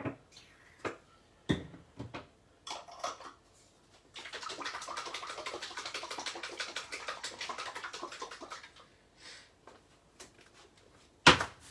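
Lidded container of oil-and-pesto salad dressing handled with a few clicks and knocks, then shaken hard for about four seconds: a rapid, even rattling slosh. A sharp knock near the end.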